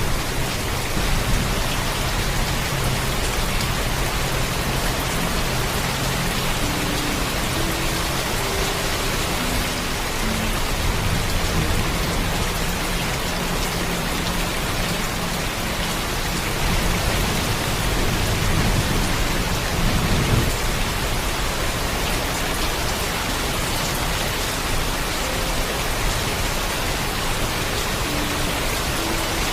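Heavy rain falling steadily, with low thunder rumbling underneath, swelling to its loudest about two-thirds of the way through.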